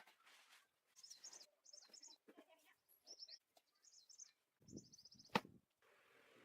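Faint small-bird chirping in five short, high, warbling phrases, with a few soft knocks and one sharp click about five seconds in.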